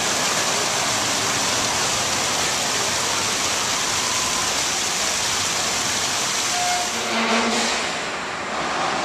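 Small narrow-gauge park train running slowly along its track, heard as a steady rushing hiss.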